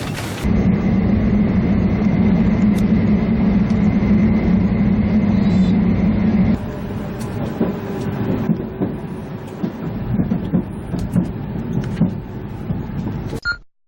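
Train running, heard from on board: a steady low drone with a faint high whine for about six seconds, which then drops to a quieter, uneven rumble. The sound cuts off abruptly near the end.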